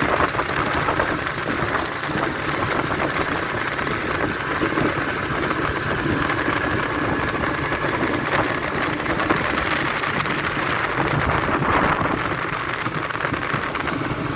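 Speedboat under way: its engine running steadily, mixed with a constant rush of wind and water.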